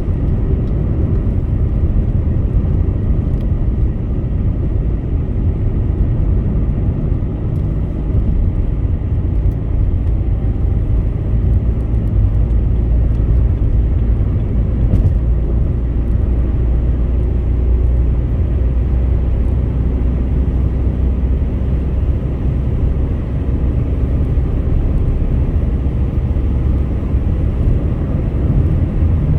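Steady low road and engine noise inside a car cruising on a highway: tyre rumble and wind, with a few faint ticks.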